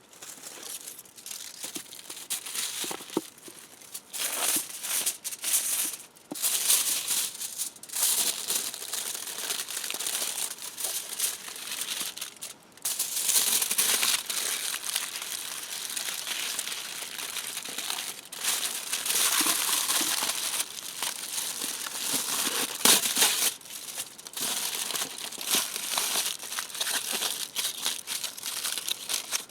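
Crinkling and crumpling noises in irregular stop-start bursts, as of something being handled and scrunched during food preparation.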